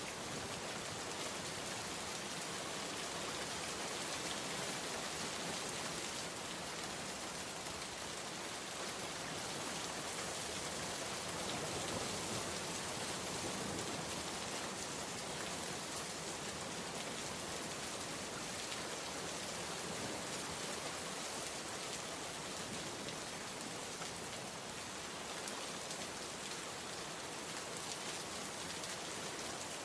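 Steady rain falling, an even dense hiss of drops on surfaces with no letup.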